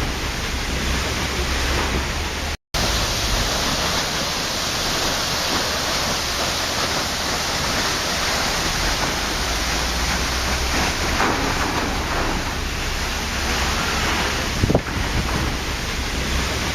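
Waterfall: a steady rush of falling water. It drops out to silence for a moment about two and a half seconds in, and there is a short thump near the end.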